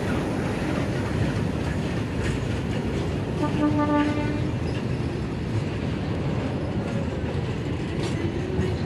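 Train running past with its wheels clattering over the rail joints, and a short horn sound about three and a half seconds in.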